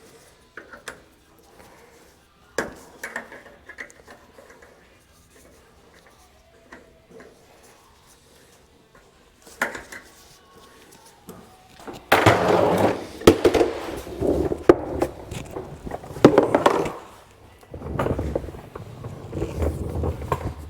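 Hand tools clicking and knocking against steel while a cotter pin is bent and worked loose from a nut on the Humvee's rear bumper mount. Scattered single clicks at first, then about twelve seconds in a louder, busy stretch of scraping and clanking metal with sharp knocks, and another burst near the end.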